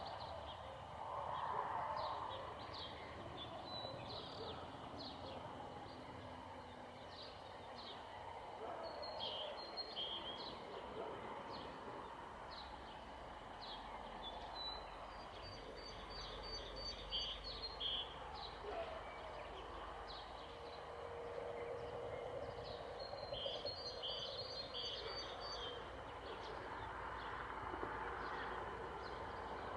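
Small birds chirping: many short, quick calls repeated throughout, bunched into denser runs twice, over a steady background hiss.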